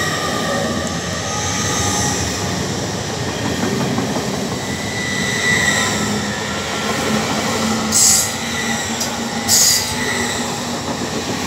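Hull Trains Class 802 passenger train passing close by: a steady rush of wheels on rail with a faint high whine. There are two brief hisses near the end.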